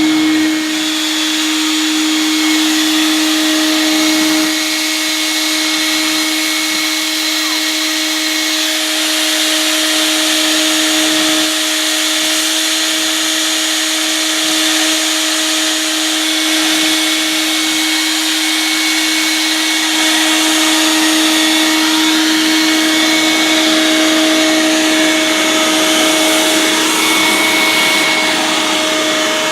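Vacuum cleaner running steadily: a constant motor whine over a rushing hiss, with slight rises and falls in loudness.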